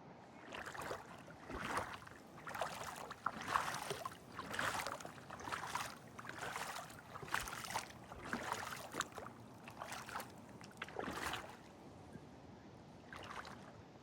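Paddle strokes splashing through lake water, about one a second for roughly eleven seconds, then a single stroke near the end.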